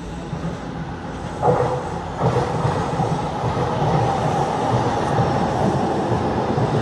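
A train moving on the track beside a stationary one: a steady rumble of wheels on rail that jumps louder about a second and a half in and stays loud.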